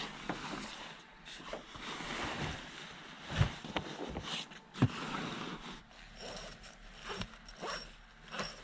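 Rain on a car, heard from inside, with rustling and two sharp knocks about three and a half and five seconds in, as someone moves about in the car.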